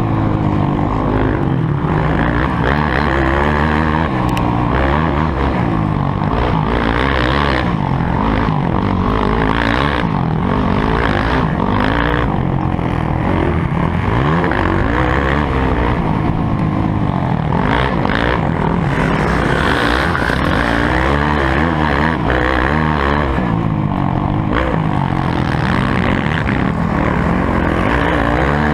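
Motocross motorcycle engine running hard, its pitch rising and falling over and over as the rider opens and closes the throttle and shifts gears.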